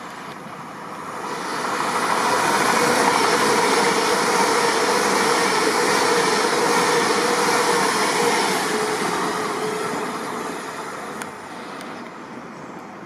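A train passing through the station: its rolling noise builds over the first two seconds, holds for about six, then fades away.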